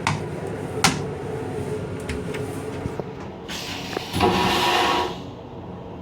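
Fittings in a Metro-North M8 railcar restroom: a few sharp clicks, then a loud rushing hiss lasting about a second and a half that stops abruptly, over the car's steady rumble.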